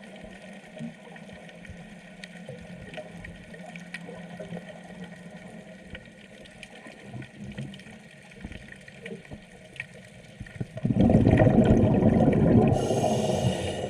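Underwater ambience with a faint steady hum and scattered faint clicks, then about eleven seconds in, the exhaust of a scuba regulator releasing a loud rush of exhaled bubbles for about two seconds, with a higher hiss starting near the end.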